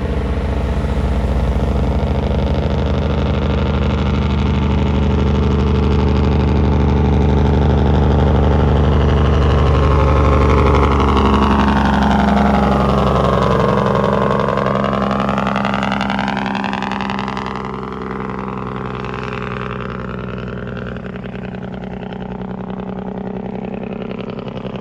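Heavy truck's diesel engine driving past: its engine note builds as it approaches, is loudest about ten seconds in, then drops in pitch as it goes by and fades to a quieter running sound.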